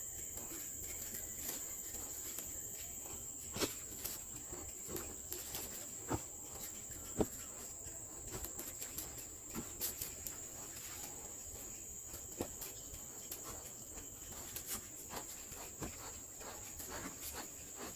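Crickets trilling in a steady, high-pitched, unbroken drone, with scattered faint clicks and ticks.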